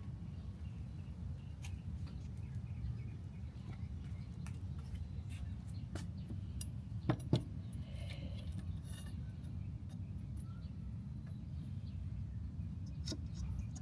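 Steady low background rumble with scattered light clicks and clinks, and two sharper clicks close together about seven seconds in.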